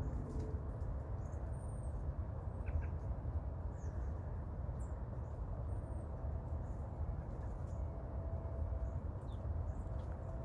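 Faint, scattered high chirps of small birds over a steady low rumble of outdoor background noise.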